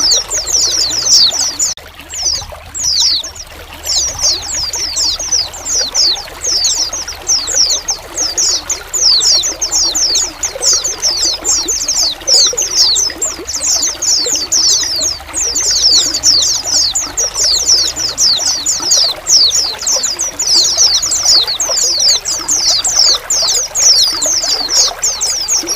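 A flock of white-eyes calling together: many quick, high, down-slurred chirps overlapping almost without pause, over a steady trickle of running water.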